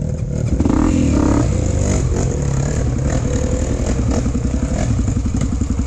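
Off-road motorcycle engine running under throttle, revving unevenly, settling into a steady rapid firing pulse near the end.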